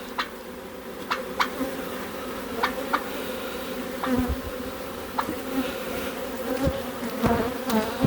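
A honeybee colony buzzing steadily around the hive entrance, with several sharp clicks and knocks as the entrance reducer is pushed and wedged into the hive entrance.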